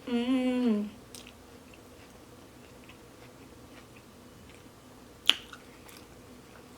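A person chewing food close to the microphone, with faint wet mouth clicks and one sharp click about five seconds in. A drawn-out, wavering vocal sound is heard in the first second.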